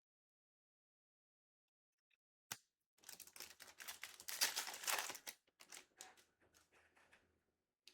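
A sharp click about two and a half seconds in, then a few seconds of crinkling and tearing of a trading-card pack's wrapper being ripped open. It is loudest in the middle and dies away in scattered crackles near the end.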